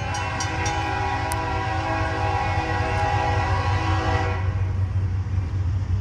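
Diesel locomotive's air horn sounding one long chord of several notes for about four seconds, then cutting off, over the steady low rumble of the passing train.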